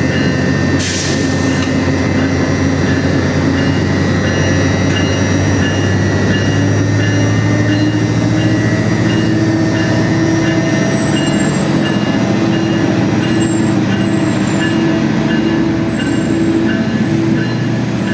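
GO Transit MP54AC locomotive pulling a 12-car passenger train out of the station. A loud, steady engine drone runs under the rumble of the cars rolling past. Short high tones repeat at an even pace over it.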